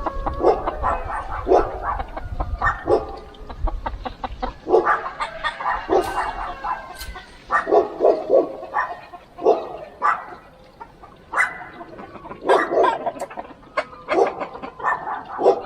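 Animals calling in short, repeated bursts, several calls in quick succession at a time, with brief gaps between clusters.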